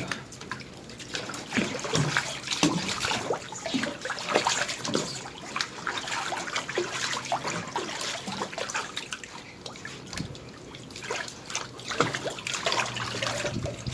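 Water splashing and trickling in irregular small splashes as a kitten is bathed by hand.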